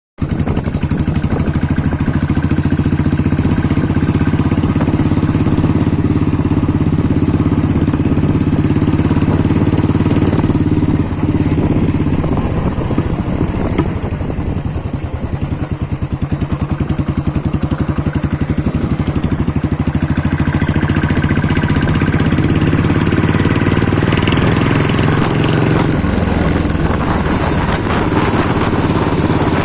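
Royal Enfield Bullet single-cylinder motorcycle engine running through its stock silencer, a continuous rapid thumping exhaust that the owner likens to a gun. The engine eases down about a third of the way in and picks up again later.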